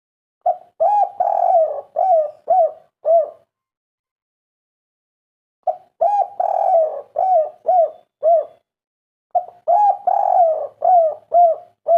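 Spotted dove (tekukur) cooing the 'kuk 3' song: three phrases separated by pauses of about two seconds, each made of a few longer coos followed by three short closing coos. The last phrase is cut off at the end.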